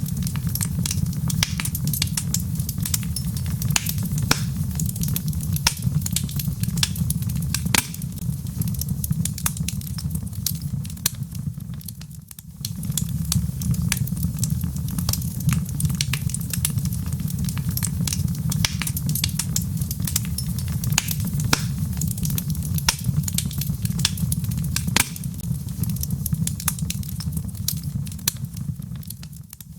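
Wood fire crackling in a fireplace: a steady low rumble with frequent sharp pops and snaps from the burning logs. The sound dips briefly about twelve seconds in and again near the end.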